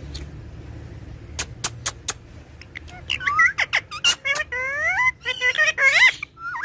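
Pet parrot calling in a quick run of shrill whistled notes that glide up and down, after four sharp clicks.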